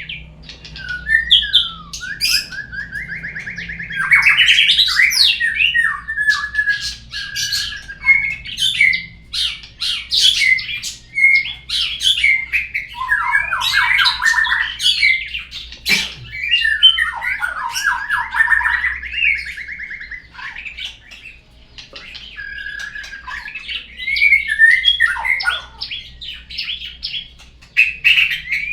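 Murai (white-rumped shama) singing a long, varied song: rapid trills, sweeping whistles and harsh buzzy rattling phrases following one another almost without a break.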